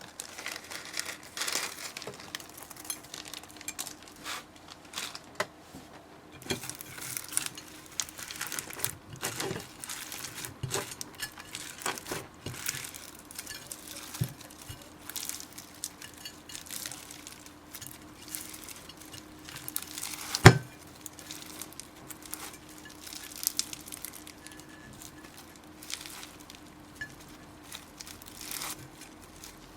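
Slime being squished and stretched by hand, giving a run of irregular sticky crackles and pops, with one sharp loud pop about two-thirds of the way through.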